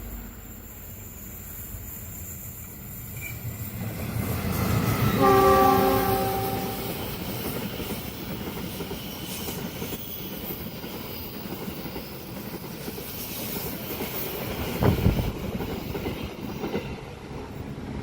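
A train horn sounds for about two seconds, starting about five seconds in, as a train approaches and passes. The steady rumble and clatter of the train's wheels follows, with a sharp thump near the end.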